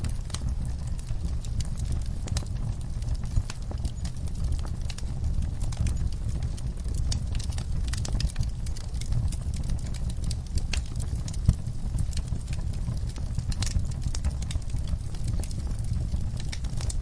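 Wood burning in a fireplace: a steady low rumble of flames with frequent sharp crackles and pops, one louder pop about two-thirds of the way through.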